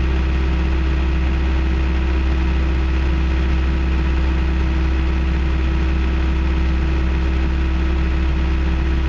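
John Deere 650J crawler dozer's diesel engine running steadily at a little over half throttle.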